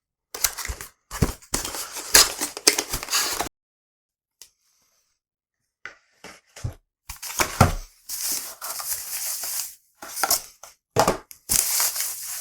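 Box packaging being handled while unboxing: rustling, crinkling and tearing with a few sharp clicks and knocks, in irregular stretches, with a silent gap of about two seconds in the middle.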